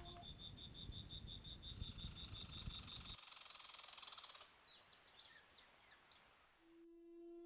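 Hillside nature ambience: an insect chirping in a fast, even pulse over a high insect hiss and a low rumble. Then a run of short, quick bird chirps, with soft music coming back in near the end.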